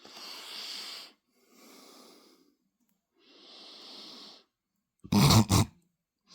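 A man's wheezing, breathy laughter: three long hissing breaths, then a short voiced laugh about five seconds in.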